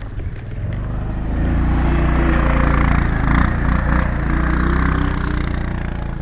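A heavy engine running, its low steady drone building from about a second in and easing off near the end.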